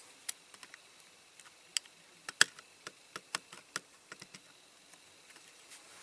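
Light, irregular clicks and taps of small diecast metal and plastic toy-car parts being handled and pressed together while the rivets are glued in, the sharpest click about two and a half seconds in.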